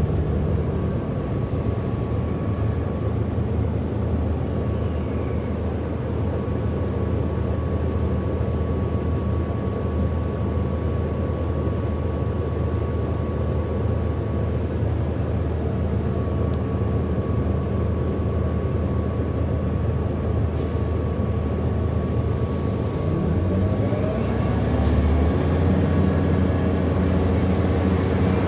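Cabin sound of a 2008 Orion VII NG hybrid-electric transit bus under way: a steady low drone with a thin steady high whine through most of it. Near the end, a rising whine sets in as the drive picks up speed.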